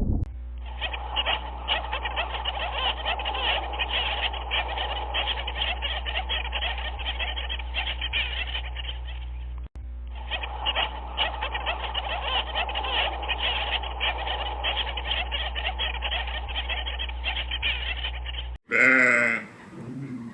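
A dense chorus of many frogs calling at once, a continuous mass of rapid overlapping croaks over a low steady hum, with a brief break about halfway through. Near the end it cuts off, and bleating starts.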